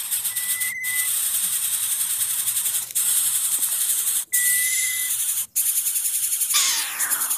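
Outdoor bird calls over a steady high hiss: two short thin whistles a few seconds apart, the second with a slight trill, then near the end a louder whistle that falls steeply in pitch. The hiss drops out briefly several times.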